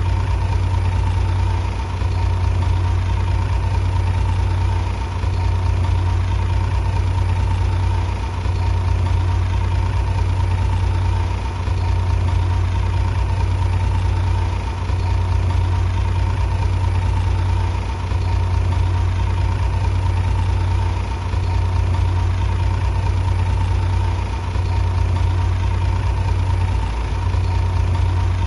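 Bulldozer diesel engine running steadily with a heavy low drone and a thin high whine, its level dipping slightly about every three seconds.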